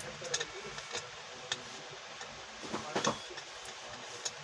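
Irregular light clicks and taps from work on a fan under repair, with a short cluster of knocks about three seconds in.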